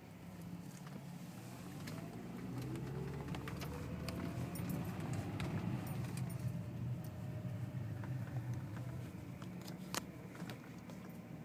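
BMW 330i's 3.0-litre inline-six accelerating hard through its automatic gearbox, heard from inside the car: the engine note climbs from about two seconds in, falls back around the middle at an upshift, and eases off after about nine seconds. A sharp click sounds about ten seconds in.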